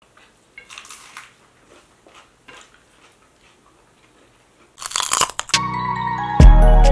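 Close-miked crunching bites into a fresh green chili pepper: soft crisp snaps about a second in and again around two and a half seconds, then a louder crackling crunch near five seconds. Music starts right after, with a beat coming in near the end.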